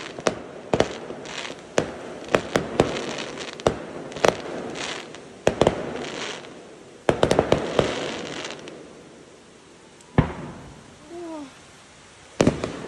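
Aerial firework shells bursting in a rapid series of sharp bangs, several followed by a short crackle of glittering stars. The bangs thin out in the last few seconds, with one more pair near the end.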